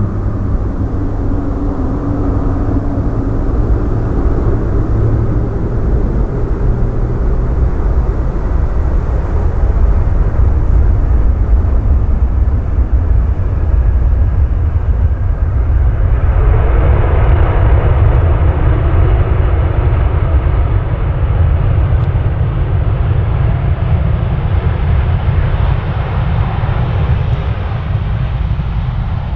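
Airliner's jet engines rumbling steadily as the aircraft moves along the runway, with a louder, higher rushing noise joining about halfway through.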